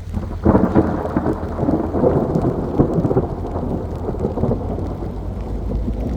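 Thunder rumbling in a rainstorm. It breaks suddenly about half a second in, crackles and rolls, then slowly dies away while the rain keeps falling.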